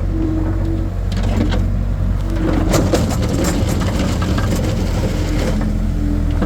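Skid steer engine running steadily while its bucket scrapes and crunches through hard ground and gravel, with a dense run of cracking and grinding from about a second in until near the end.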